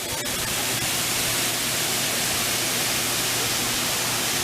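Steady, loud rushing hiss that holds level without gusts or breaks, with a faint low hum underneath.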